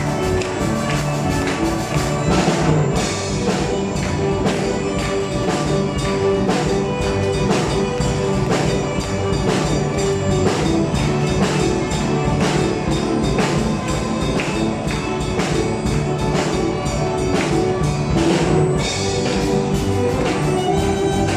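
Live ensemble music, a Paraguayan folk piece, with a steady, dense percussion beat of tambourine-like taps under melodic instruments.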